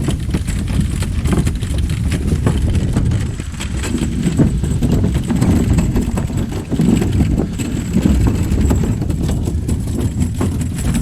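A loaded wagon's wheels rolling over a rough, rocky trail: a steady, loud rumble with rapid, irregular clattering.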